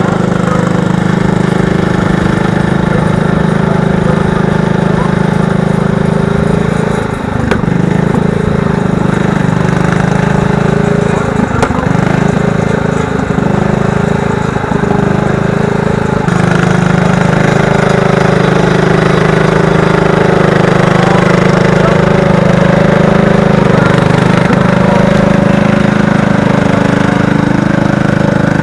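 Garden tractor engine running steadily, with a brief dip about seven seconds in and growing a little louder from about seventeen seconds.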